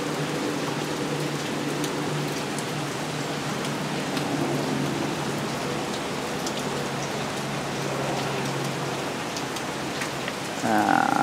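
Heavy rain falling steadily on pavement and parked cars, an even hiss with scattered sharp drop ticks. A faint low steady hum runs beneath it, and a brief louder pitched sound comes right at the end.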